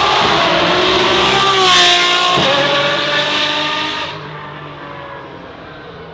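Apollo IE's V12 accelerating hard, its pitch climbing to the loudest point about two seconds in. About two and a half seconds in the pitch drops sharply, and the engine sound then fades as a car draws away.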